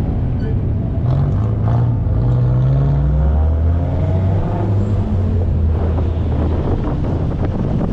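A car engine rising in pitch for a couple of seconds, then running at a steady low note, with wind buffeting the microphone.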